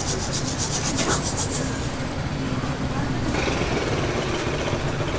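A kitchen utensil scraping fast and evenly, about six strokes a second, consistent with dakgangjeong being tossed or mixed in a pan at the stall. The strokes stop about a second and a half in, and a steadier hiss follows.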